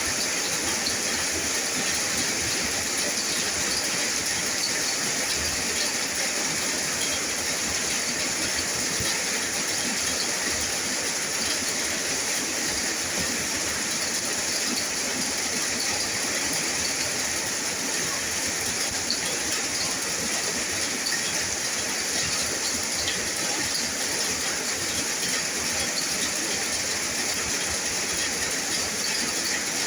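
Steady rain falling: an even, unbroken hiss with faint scattered pattering of drops.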